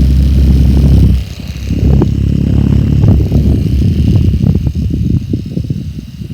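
A 1960s Pifco mini fan's small electric motor running close to the microphone: a steady low rumble with many small clicks through it. The motor is switched off right at the end.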